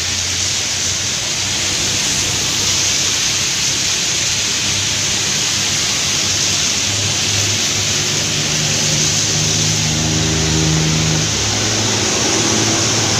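Heavy rain hissing steadily on a wet road, with passing traffic. From about halfway, the steady low drone of a Hino cargo truck's diesel engine comes in as the truck approaches.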